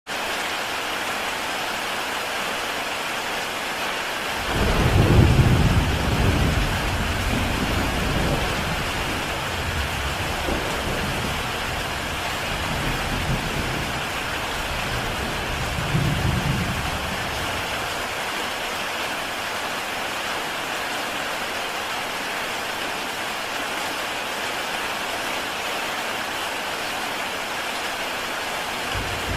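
Heavy rain falling on a tile roof, a steady dense hiss. About four seconds in, a low rumble of thunder rolls in, swells again later and fades away after roughly a dozen seconds.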